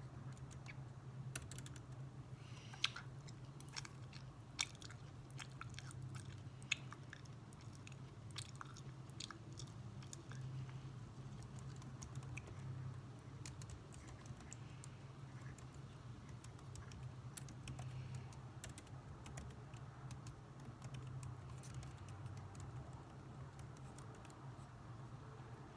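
Computer keyboard typing: irregular key clicks, busy in the first half and thinning out later, over a steady low hum.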